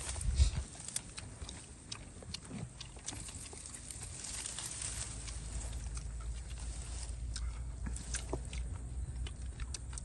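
People chewing crunchy shredded green papaya salad with their mouths open, many short wet clicks and smacks, over a steady low rumble. A louder thump about half a second in.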